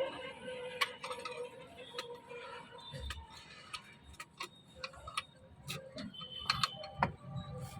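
Irregular light clicks and taps of tools and small metal parts being handled while the marble cutter's gearbox is worked on.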